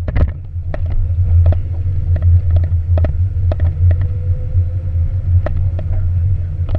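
A car engine running at low revs with a steady low rumble as the convertible rolls slowly, with frequent short sharp clicks scattered throughout.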